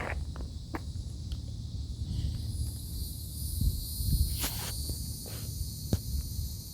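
Outdoor ambience: a steady high insect buzz over a low wind rumble on the microphone, with a few short clicks and scuffs like footsteps.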